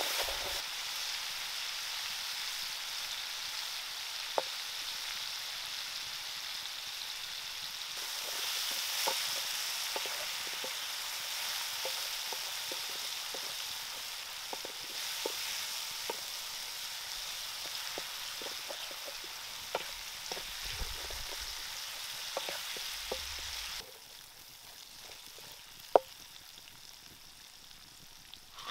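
Spicy chili-and-onion paste sizzling in hot oil in a wok while a wooden spatula stirs it, with scattered light knocks and scrapes of the spatula on the pan. About 24 seconds in the sizzle drops to a quieter level, and a single sharp click follows a couple of seconds later.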